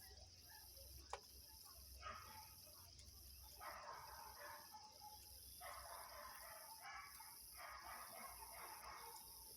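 Faint animal calls, several rough cries about half a second to a second long, over a steady hiss.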